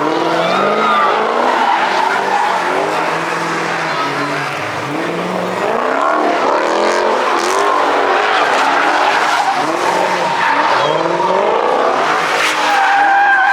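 Car engine revving up and down again and again, with tyres squealing and skidding as the car spins donuts.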